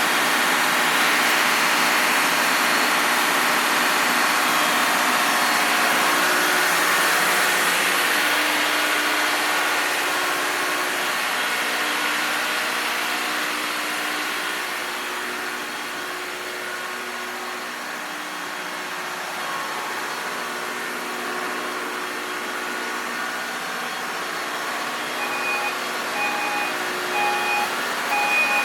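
Engine room machinery running steadily, a dense hum of several steady tones and hiss. About 25 seconds in, a repeating electronic beep starts, roughly one beep a second.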